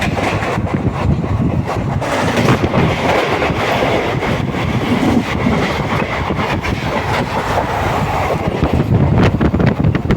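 Passenger train running along the track, heard from on board: a steady rumble and rush with the wheels clattering over the rails.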